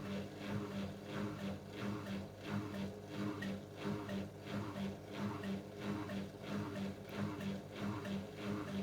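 AEG LS60840L washing machine running: a steady motor hum with a regular swishing pulse about two to three times a second as the drum turns.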